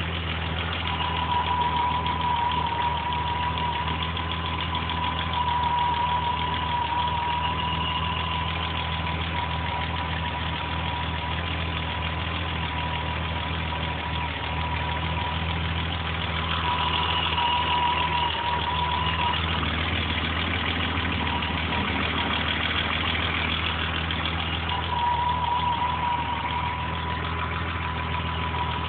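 A BMW E30 325is's 2.5-litre straight-six is idling steadily, with a thin steady whine alongside. The engine runs rough despite new spark plugs, which the owner suspects comes from a corroded spark plug wire.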